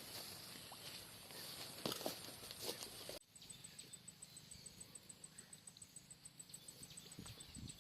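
Faint scattered knocks and rustling, then, from about three seconds in, an insect chirping in a fast, even, high-pitched pulse of about five chirps a second.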